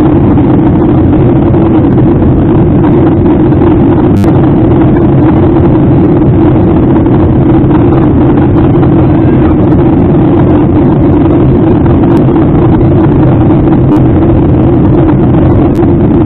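Steady, loud engine and airflow noise inside an airliner cabin in flight, an even rumble that holds without change.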